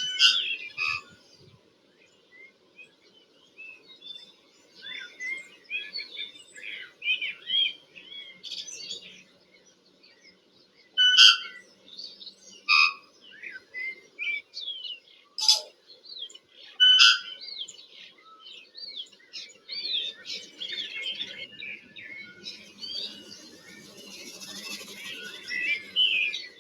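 Tui singing: a varied run of chirps and gliding whistles broken by a few sharp clicks, turning into a dense, scratchy chatter for the last few seconds.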